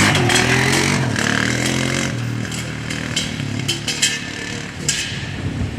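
Four-wheeler (ATV) engine running and revving up and down, fading out after about two seconds into a rough rushing noise with scattered clicks.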